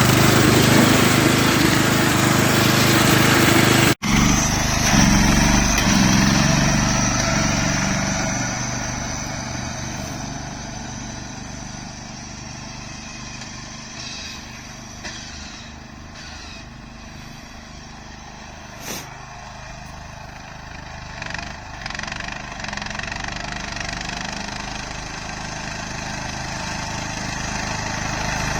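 Riding lawnmower engine running at speed, fitted with a larger front pulley for more speed; it is loud at first, fades as the mower moves away, and grows louder again near the end as it comes back. The sound cuts out for an instant about four seconds in.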